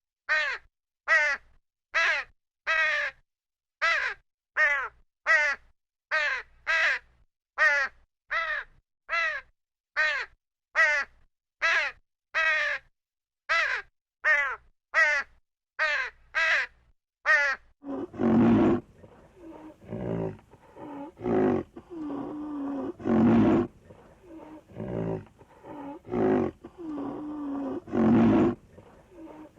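A crow cawing in a long unbroken run of harsh, falling caws, a bit more than one a second. At about 18 s this gives way to a big cat roaring, with long, deep roars broken by shorter grunts.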